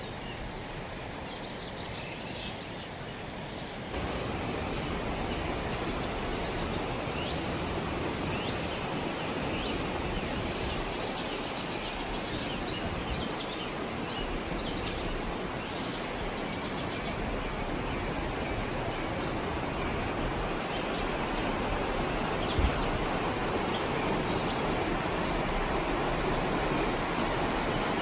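Songbirds chirping over a steady rushing outdoor background, with a single brief low thump near the end.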